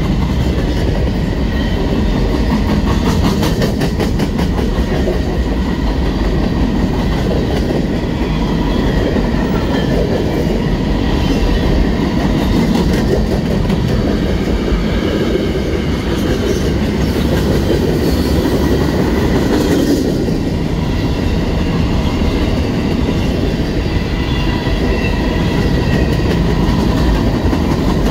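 Freight cars of CSX's M301 westbound manifest rolling past close by: a steady, loud rumble of steel wheels on rail with a running clatter of wheels over the track.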